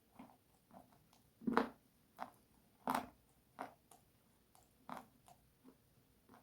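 Crisp crunching bites into brittle food close to the microphone: about nine separate crunches at irregular spacing, the loudest about a second and a half in and again at three seconds.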